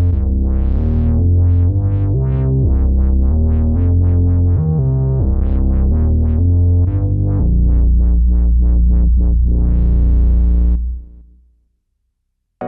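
Electronic music played on a Native Instruments Maschine Plus: a held synth bass under quick plucked synth notes. It fades out about eleven seconds in to silence.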